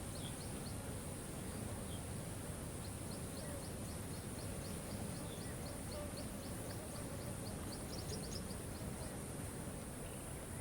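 Steady rushing water of a waterfall, with a bird repeating a short high note about four times a second; the bird pauses briefly about a second in and stops about nine seconds in.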